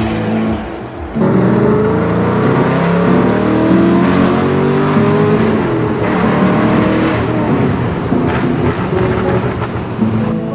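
A car engine accelerating hard, its pitch climbing again and again, heard from inside the car. A brief dip and a cut come about a second in.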